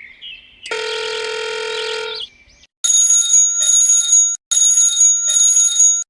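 Sound effects: a steady electronic beep held for about a second and a half, then a bell-like ringing that comes in four bursts and stops abruptly near the end.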